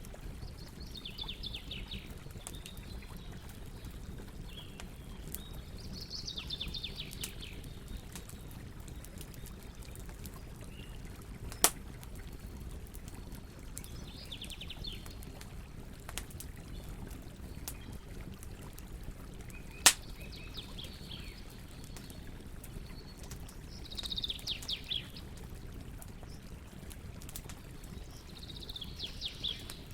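Wood fire crackling with a scatter of small clicks and two sharp loud pops, over a steady low rumble. A songbird repeats a short, rapid-note phrase about six times, every few seconds.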